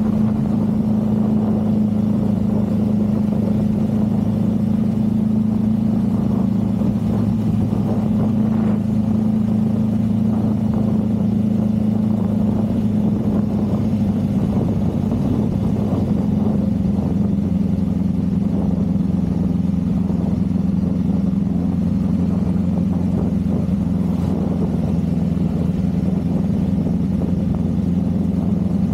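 Motorcycle engine running at a steady pace on the road, its pitch dropping a little about halfway through and then holding steady.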